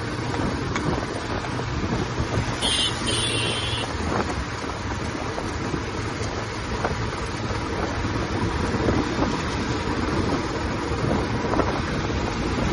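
Royal Enfield Classic 350's single-cylinder engine and exhaust running steadily at road speed, with wind noise on the microphone. About two and a half seconds in, a short high tone sounds in two parts.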